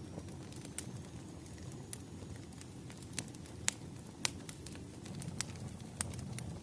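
Wood fire crackling: a steady low rumble of burning logs with sharp pops scattered irregularly through it, two louder pops near the middle.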